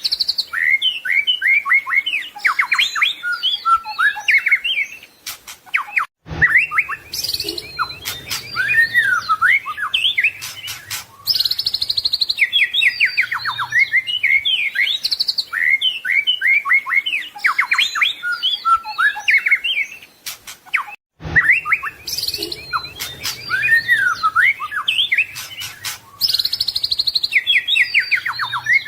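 White-rumped shama (murai batu) singing a continuous, rapid, varied song of whistles, trills and sweeping notes, packed with mimicked phrases ('isian'). The song breaks off for a moment about six seconds in and again about twenty-one seconds in.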